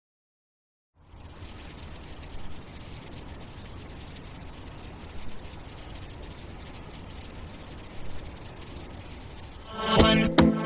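A steady, high cricket-like chirring over a faint low rumble. About ten seconds in, music breaks in with loud, sharply struck pitched notes.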